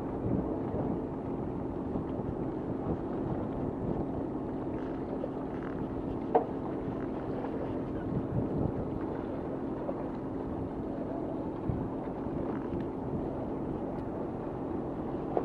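Fishing boat's engine running steadily with a low hum, and a single sharp click about six seconds in.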